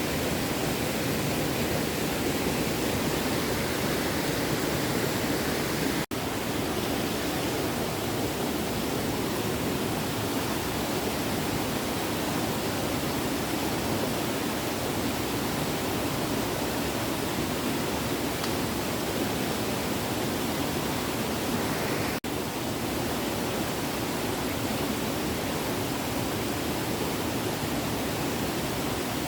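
Small stream flowing over rocks, a steady rush of water that cuts out for an instant twice.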